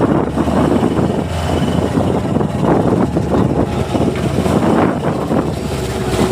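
A boat's engine running steadily, with wind buffeting the microphone and the rush of rough sea over it.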